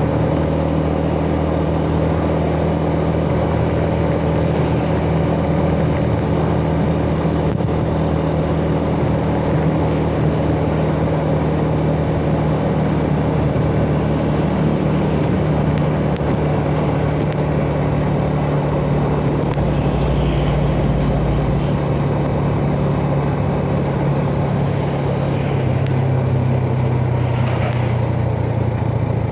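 Yamaha Jupiter Z's single-cylinder four-stroke engine running steadily under way, with road noise underneath. Its pitch eases slightly lower in the second half.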